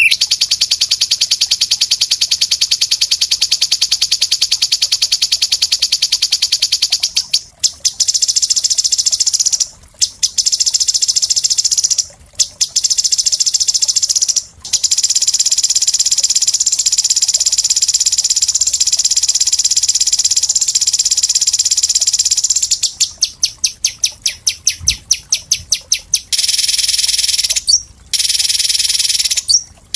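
Songbird singing long, loud, high-pitched rapid trills, each held for several seconds with brief pauses between them, breaking into choppier separate notes near the end: a recorded song of the kind played to train cage birds.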